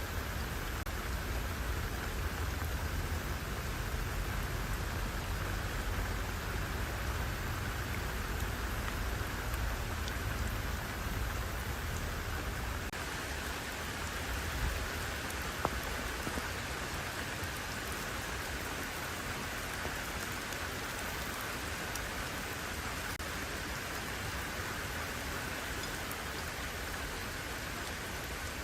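Steady rain falling, an even hiss of drops, with a low rumble underneath that eases about halfway through and a couple of single louder drop ticks near the middle.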